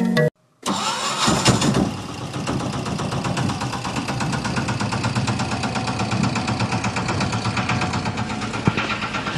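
A vehicle engine starts about a second in, then runs at a steady idle with an even firing beat.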